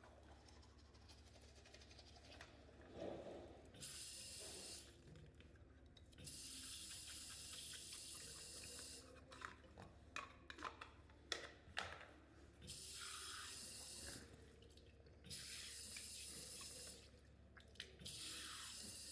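Washroom tap running in about five separate spurts of a few seconds each, water splashing into a sink during hand washing. Short clicks and knocks come between the spurts.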